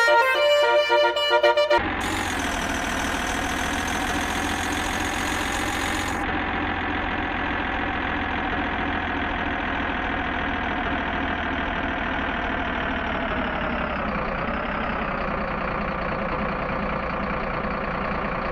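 A short bit of music, then a truck engine running steadily, probably a sound effect. Its pitch dips briefly about two-thirds of the way through.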